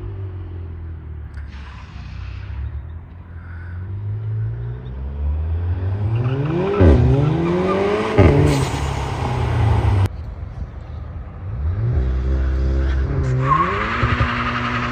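Seat Leon Cupra 280's turbocharged 2.0-litre four-cylinder breathing through a Cobra Sport non-resonated exhaust, revs climbing hard through the gears. Each gear change is a quick dip in pitch with a sudden loud burst. The sound cuts off abruptly about ten seconds in and resumes with the engine accelerating again.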